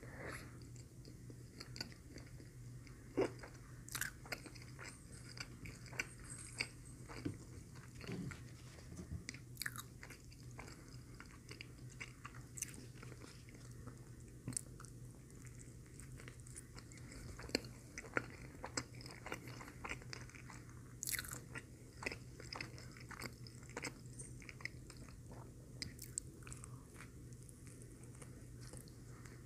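Close-miked mouth sounds of a person biting into and chewing a McDonald's Filet-O-Fish sandwich, with many short sharp clicks scattered throughout, over a faint steady low hum.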